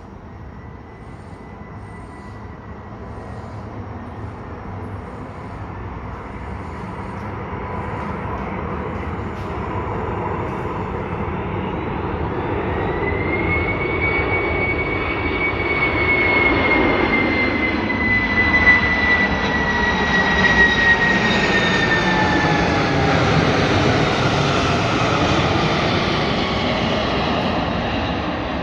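Boeing 747-400's four turbofan engines on a low pass, the jet noise building steadily as it approaches and peaking over the second half. High engine whines slide down in pitch as the aircraft goes by.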